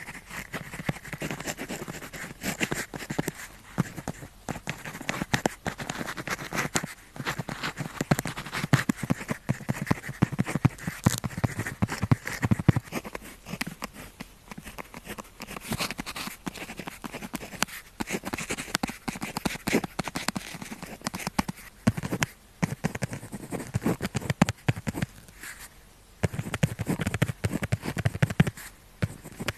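Pen tip writing on paper: an irregular run of scratchy strokes and small taps, with brief pauses between words, a longer one shortly before the end.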